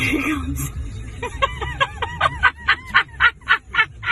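A rapid, even run of short high-pitched animal calls, about five a second, starting about a second in, over a low rumble.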